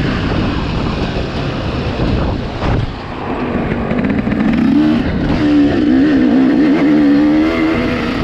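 Dirt bike engine running while being ridden. In the second half its pitch wavers up and down repeatedly as the throttle is blipped.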